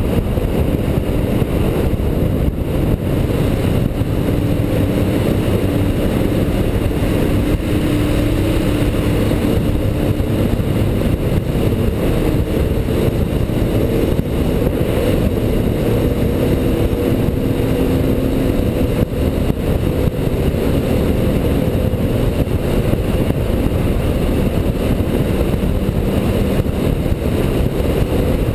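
A motorcycle engine running under steady riding, its note rising and falling a little with the throttle, buried in heavy wind rush on the microphone.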